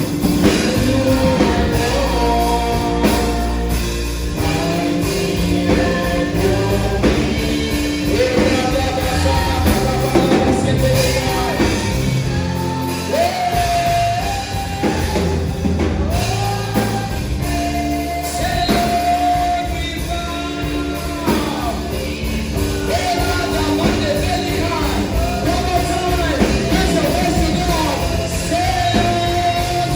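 Live gospel worship music: a voice singing long, held and sliding notes over a band accompaniment with steady bass.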